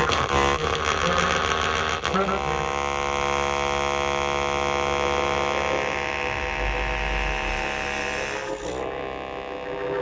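Suzuki Sirius S48B bass chromatic harmonica played through a Boss MD500 modulation effects pedal with added reverb: choppy, pulsing notes for about two seconds, then one long held note, changing to a new note near the end.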